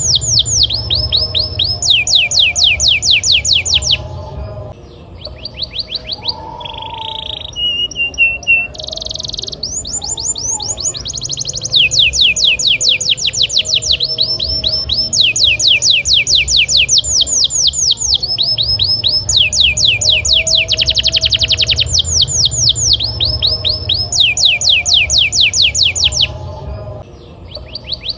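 Domestic canary singing continuously in long rolls of rapid trills, each note a fast downward sweep, with a new phrase following close on the last. There are brief breaks about four seconds in and near the end.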